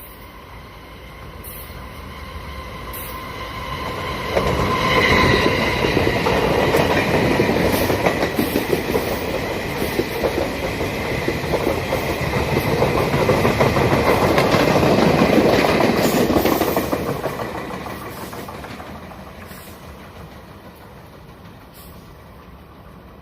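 A Taiwan Railway Chu-Kuang Express, an electric-locomotive-hauled passenger train, passing through a station without stopping. It grows loud about four seconds in, its wheels clatter over the rail joints for some twelve seconds, and it fades away near the end. A high steady tone sounds over the noise as the train arrives.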